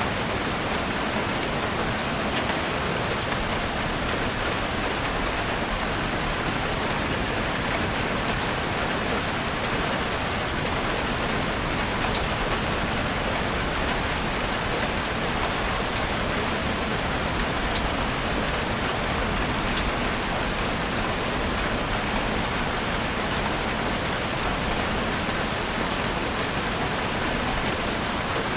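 Heavy rain drumming steadily on a roof, a dense even hiss of drops with fine individual ticks.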